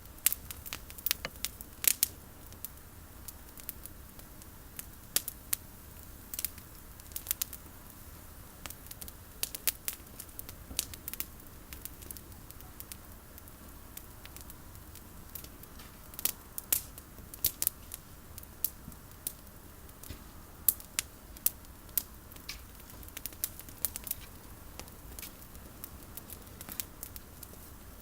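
Campfire of burning olive-tree prunings crackling, with irregular sharp pops and snaps.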